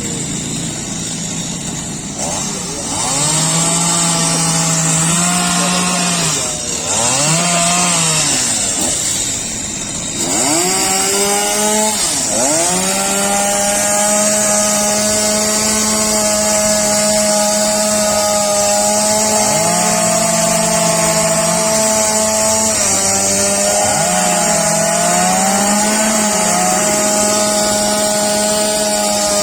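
Chainsaw engine revving up and falling back several times in the first ten seconds, then held at high revs with its pitch wavering as it works, cutting up a storm-felled tree.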